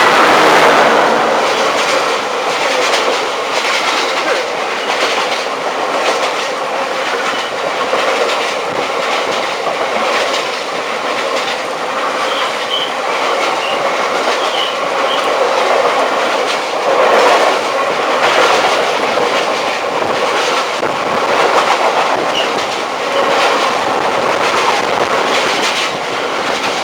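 Freight train of container wagons behind a Class 60 diesel locomotive passing close by: a steady, loud clatter of wagon wheels over the rails, loudest at the start as the locomotive goes by. Faint wheel squeal comes in briefly around the middle.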